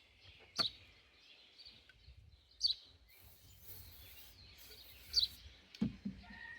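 A bird chirping three times, a couple of seconds apart, over faint handling noise, with a single knock near the end.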